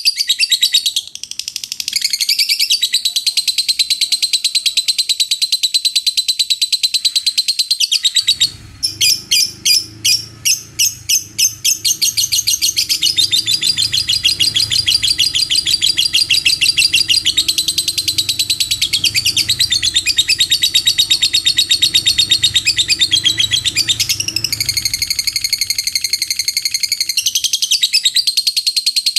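Lovebird in 'ngekek': a long, unbroken stream of rapid, high-pitched chattering notes, with a run of separate, more spaced notes about nine to twelve seconds in.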